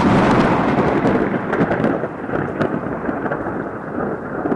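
Strong wind blowing across the microphone: a loud, steady rushing with a low rumble, starting suddenly.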